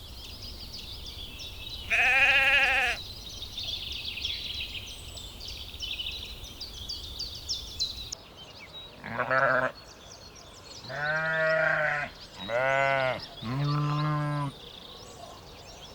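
Sheep bleating: one high, wavering bleat about two seconds in, then a short bleat and three deeper bleats in quick succession in the second half. Birds twitter in the background through the first half.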